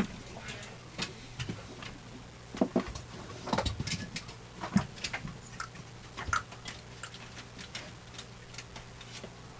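Irregular light clicks and clatters of small toy cars being handled and set down, over a faint steady low hum.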